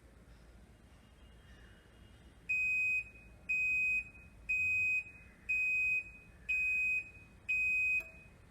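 Top-loading washing machine's buzzer sounding its end-of-cycle signal: six half-second high beeps, one a second, starting about two and a half seconds in.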